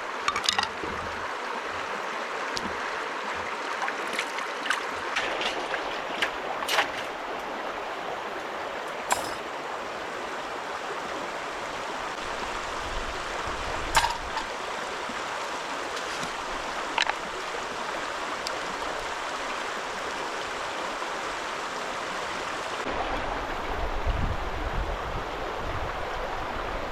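Flowing river water, a steady rushing, with a few sharp clicks or knocks scattered through it and a low rumble near the end.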